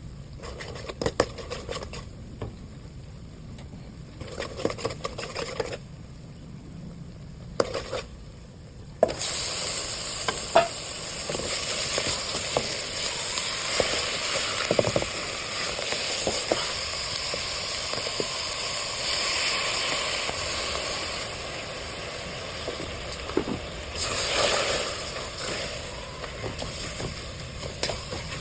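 A few knocks and clatters of a utensil on the pan, then about nine seconds in food goes into hot oil and starts sizzling, and keeps sizzling while it is stirred. The sizzle swells again near the end.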